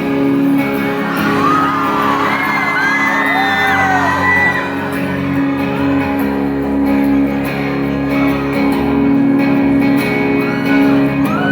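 Live band playing a slow, sustained song intro in a large hall, heard from within the audience, with fans screaming and whooping over it, most in the first few seconds and again near the end.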